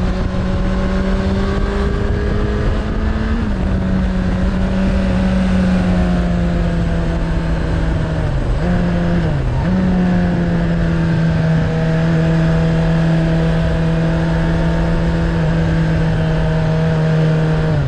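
Suzuki Bandit 600's inline-four engine through a Hashiru aftermarket exhaust, running at steady revs while riding, with wind rush on the microphone. The engine note eases down a little after about three seconds and dips briefly twice about halfway through before settling steady again.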